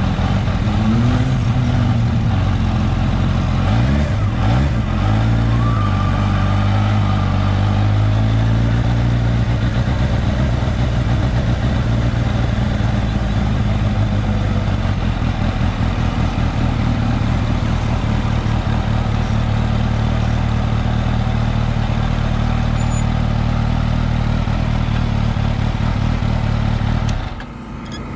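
Motorcycle engine running at idle. The revs shift up and down a few times in the first several seconds, then settle into a steady idle that cuts off near the end.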